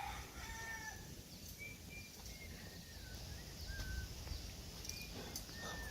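Birds calling faintly in short whistled notes, some gliding up or down, repeating every second or so over a low background rumble.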